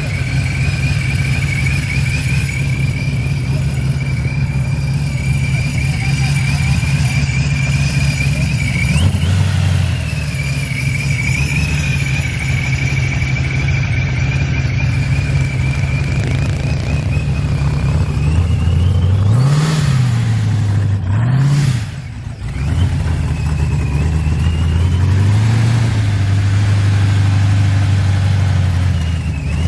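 Car engine running at a fast idle, dropping to a lower idle about a third of the way in, then blipped in quick revs twice about two-thirds of the way through and again at the end, with a high wavering whine over it.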